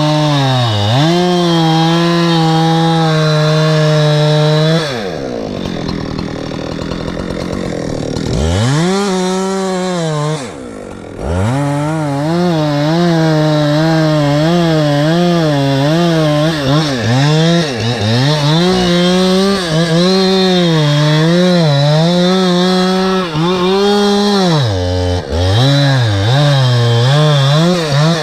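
Two-stroke chainsaw cutting wood at high revs. The throttle is let off and opened again over and over, so the pitch dips and climbs back. About five seconds in it drops to a lower run for a few seconds, then nearly stops around ten seconds before revving up again.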